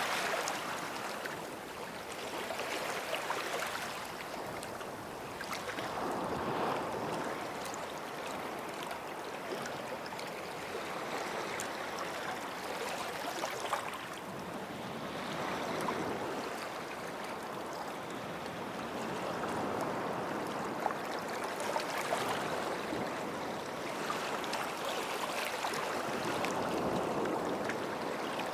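Small sea waves washing onto a sandy shore at the water's edge, swelling and falling back every few seconds, with a light fizz of water over sand.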